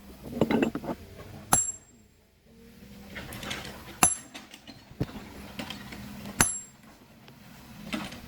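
Steel hammer striking a steel wedge or chisel set in stone, three ringing metallic blows about two and a half seconds apart, with lighter knocks and scraping between them.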